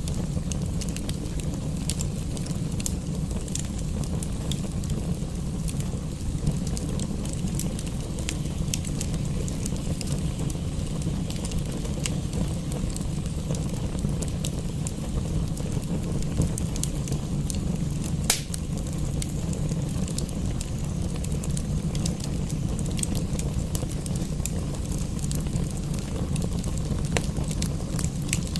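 Wood fire crackling with scattered sharp pops, one louder pop about eighteen seconds in, over a steady low rumble, mixed with steady rain.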